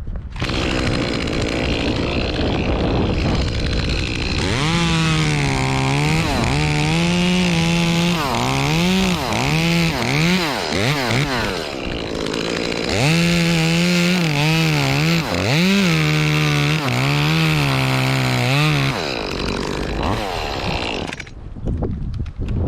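Echo CS-2511T top-handle two-stroke chainsaw running and cutting wood in two spells, its engine note rising and sagging as it bites.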